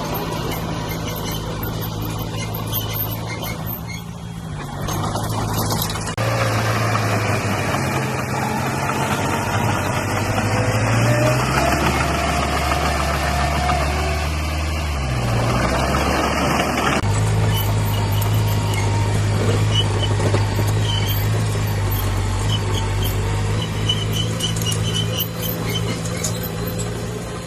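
Heavy diesel engine of a construction machine running, its pitch stepping up and down several times as the revs change. From about six to seventeen seconds in, a louder rough grinding noise rides over it.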